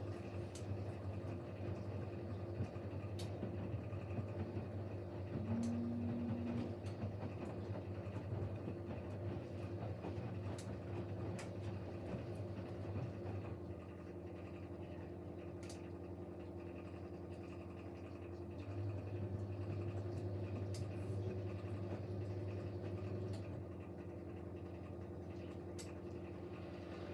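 Siemens Siwamat Plus 574 washing machine's drain pump running with a steady hum, pumping out the wash water after the main wash, with a brief extra tone about six seconds in.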